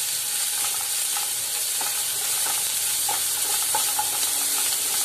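Onions, turmeric and ginger-garlic paste sizzling in hot oil in a nonstick kadai, stirred with a wooden spatula that scrapes and taps against the pan now and then.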